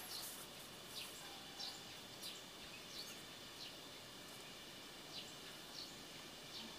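Faint background hiss with short, high chirps of small birds every half second to a second.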